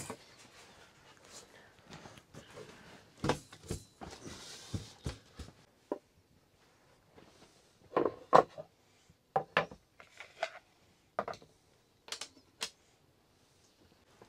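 Irregular knocks and clicks of objects being handled, with a short hiss about four seconds in; the loudest knocks come a little past the middle.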